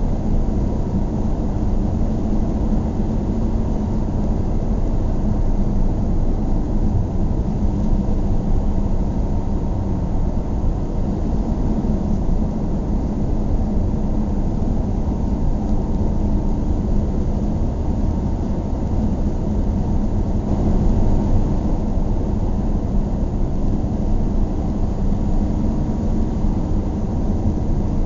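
Steady car driving noise, engine and tyres rumbling evenly with most of the sound low and muffled.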